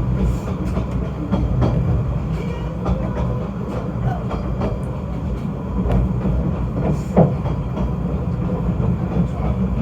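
Snowdon Mountain Railway train running, a steady low rumble with scattered clicks and one sharper knock about seven seconds in.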